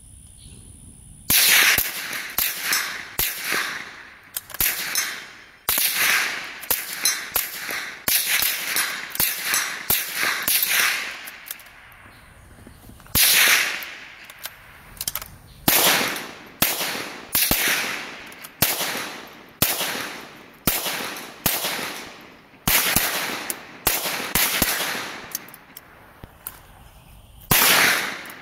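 .22 rimfire gunshots fired in quick strings of several shots, dozens in all, with short pauses between strings. Each sharp crack trails off briefly. The firing begins about a second in.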